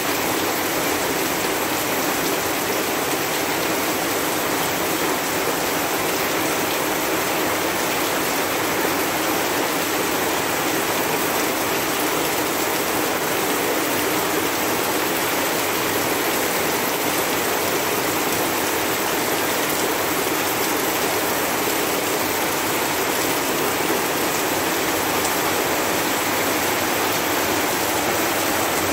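Heavy rain falling, a dense steady hiss of drops with no let-up.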